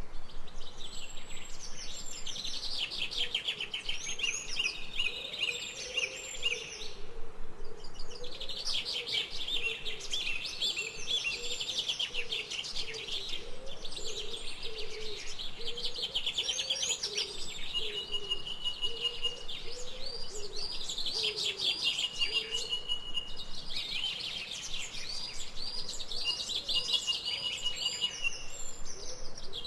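Several birds singing and chirping at once in a forest chorus, with rapid high trills and repeated short notes, now and then a held whistle, and a lower wavering call underneath.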